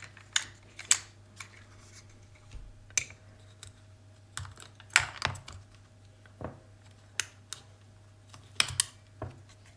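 Sharp, irregular clicks and taps of a plastic multimeter case and small tools being handled while the meter is taken apart, over a faint steady hum.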